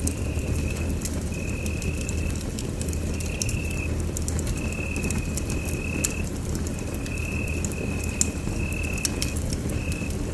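Wood fire crackling in a fireplace, with irregular sharp pops over a steady low rumble. A thin high tone comes and goes in short spells of about a second throughout.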